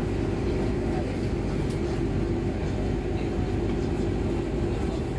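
Steady, even drone of a vehicle's engine, with a constant low hum and rumble.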